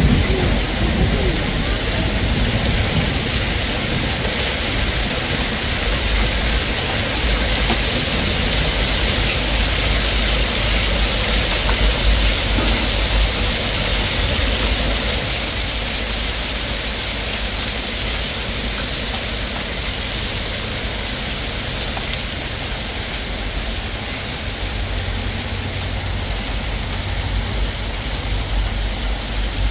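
Heavy rain pouring down steadily, with a low rumble underneath; it eases slightly about halfway through.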